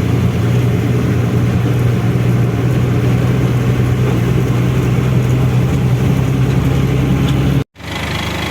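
Diesel truck engine running steadily with a low, even hum and road noise while driving. Near the end the sound cuts out abruptly for a moment, then comes back a little quieter.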